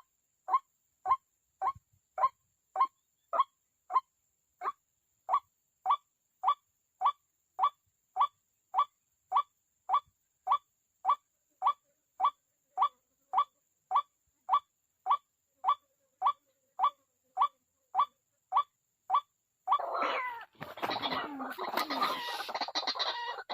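White-breasted waterhen (ruak-ruak) calling: a long, even series of short single notes, a little under two a second. About twenty seconds in, this gives way to a loud, harsh jumble of squawking calls.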